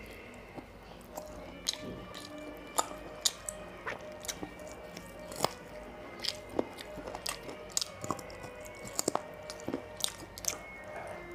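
Close-up mouth sounds of a person eating chicken curry and rice by hand: wet chewing, squishing and sharp lip-smacking clicks at an irregular pace, over faint background music.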